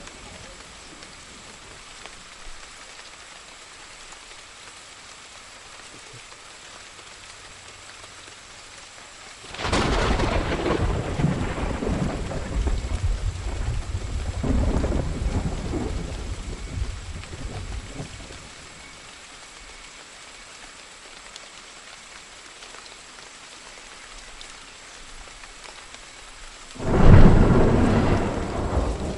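Steady rain with two thunder claps: one about a third of the way in that rumbles on for around eight seconds, and a sharper, louder one near the end that fades away.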